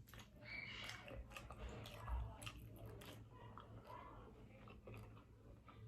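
A person chewing and biting a mouthful of seafood close to the microphone, with irregular wet mouth clicks and smacks.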